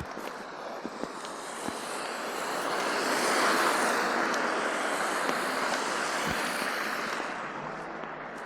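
A vehicle driving past on a snow-covered road: its tyre hiss swells to a peak about three and a half seconds in, then fades away.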